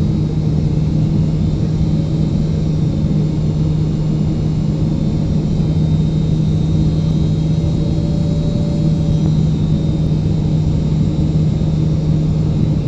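Steady cabin noise of a Boeing 777-300ER: an even drone of jet engines and airflow with a constant low hum, unchanging throughout.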